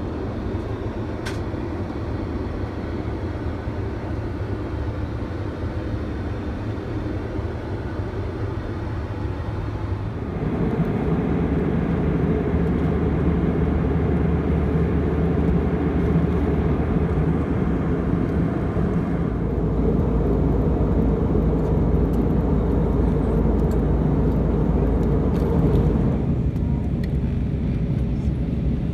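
Airbus A319 cabin noise from inside the plane: a steady rumble of engine and airflow. It gets suddenly louder about ten seconds in and eases back somewhat near the end.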